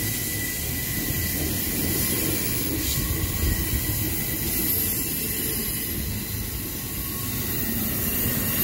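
Freight train rumbling steadily past on a sharp curve, with a thin steady wheel squeal that fades out within the first two seconds.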